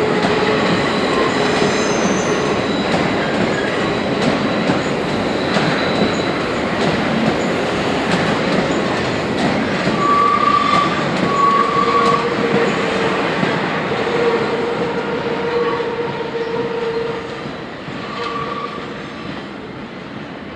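Railway wagons rolling through a marshalling yard, a loud, steady rumble of wheels on rails. From about halfway through there are short, shrill wheel squeals, several times. The sound fades over the last few seconds.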